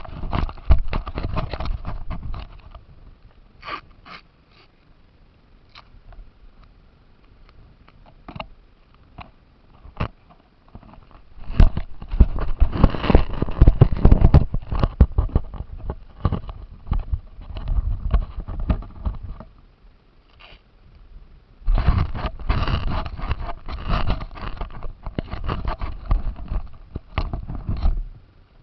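Radio-controlled car's drivetrain and tyres heard up close through its onboard camera: rough scraping and rattling over the ground in bursts, with a faint steady whine under them. It drives briefly at the start, goes quiet with a few clicks, then makes two longer runs, from about 11 seconds to 20 and from about 22 seconds to near the end.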